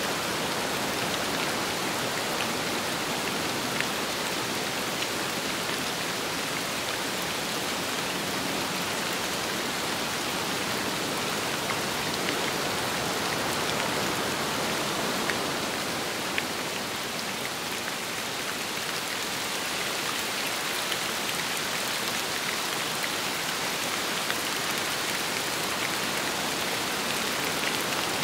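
Steady rain falling on a surface, a dense even hiss with scattered small drop taps, easing slightly about two-thirds of the way through.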